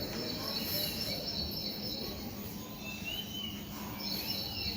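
Birds chirping in short rising-and-falling calls, with a high insect buzz that stops about two seconds in and starts again near the end, over a steady low outdoor noise.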